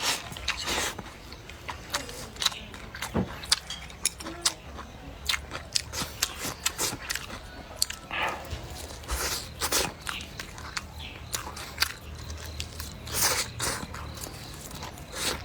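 Close-up mukbang eating sounds: irregular biting and chewing, with many short mouth clicks and a few longer noisy chews.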